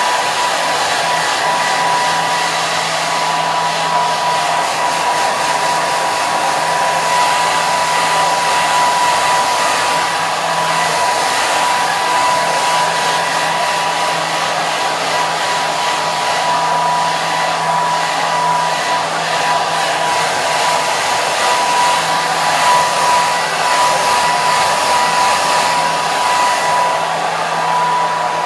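Hair dryer running steadily: a constant airflow rush with a thin high whine from its motor.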